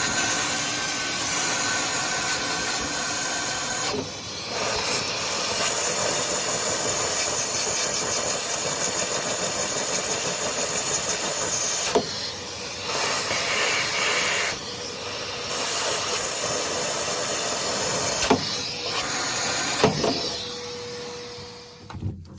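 Shop vacuum running with a steady rushing hiss and motor whine while the furnace's collector box ports are cleaned out. The sound shifts several times, with a few sharp knocks, and winds down near the end.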